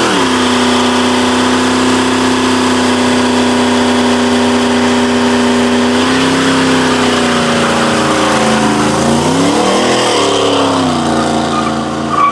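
Muscle car engine held at steady high revs for several seconds. The revs drop and climb again about nine to ten seconds in, then the sound cuts off suddenly at the end.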